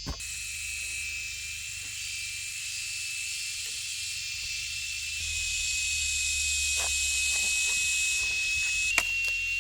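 Rainforest insects droning: a steady, high-pitched whine over a hiss, getting a little louder about halfway through. A single sharp knock comes near the end.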